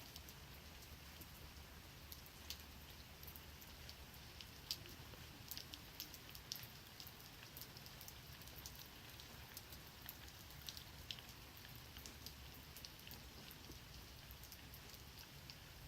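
Faint rain falling, with irregular scattered drops ticking against a surface over a low steady hiss.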